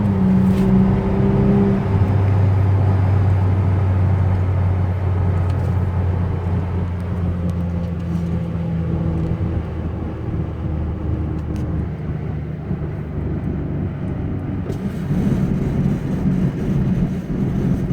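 BMW 335i's turbocharged 3.0-litre inline-six engine pulling the car along a drive. Its pitch shifts about two seconds in and holds steady for several seconds, then fades before rising again near the end.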